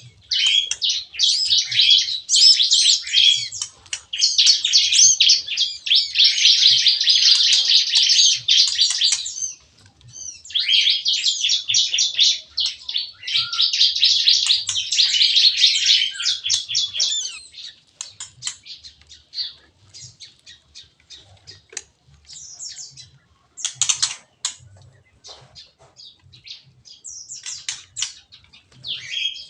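Small songbirds chirping and singing together, a dense, fast high chatter for the first half, thinning to scattered separate chirps and calls after about seventeen seconds.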